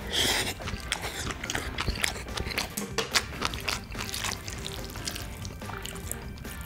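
Close-miked eating sounds: wet chewing and lip-smacking on a mouthful of Spam-mayo rice, with chopsticks clicking and scraping against the bowl as the rice is stirred.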